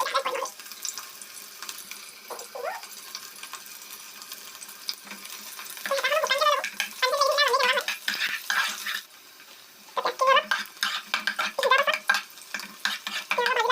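Onions sizzling as they fry in hot oil in a large kadai, stirred with a spoon. A voice talks over it twice in the second half.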